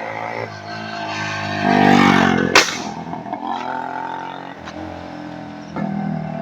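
Yamaha RX 100's two-stroke single-cylinder engine running through a Splendor exhaust, blipped up about two seconds in, then settling back. A single sharp pop cracks out of it just after the rev.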